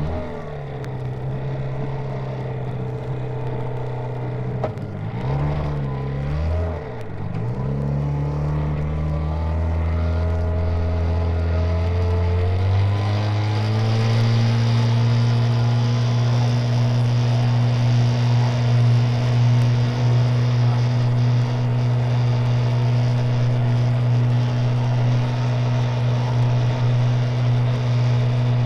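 Engine revving up and down a few times, then climbing steadily in pitch and holding at a high, steady speed.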